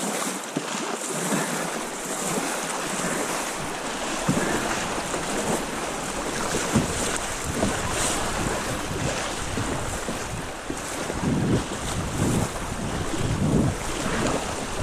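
Fast river water rushing around a kayak, with wind buffeting the microphone; irregular low thuds start about four seconds in and grow stronger near the end.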